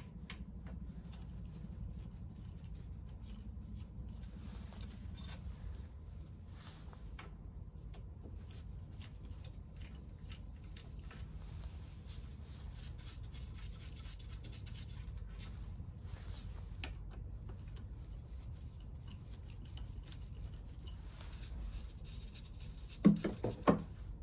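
Faint scattered clicks and taps, as of tools and small parts being handled during scooter engine disassembly, over a low steady hum. About a second before the end come a few short, louder pitched sounds in quick succession.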